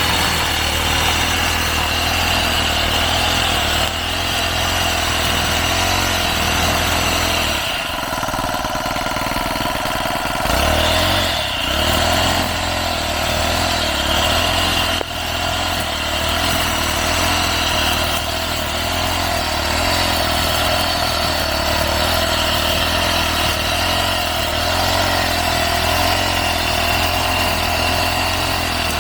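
Petrol brush cutter engine running steadily while cutting grass, its note changing briefly about eight seconds in before settling back.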